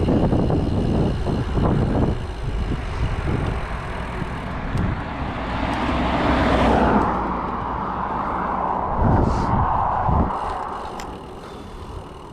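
A car passing by, its road noise swelling to a peak about seven seconds in and then fading away, with wind buffeting the microphone at the start.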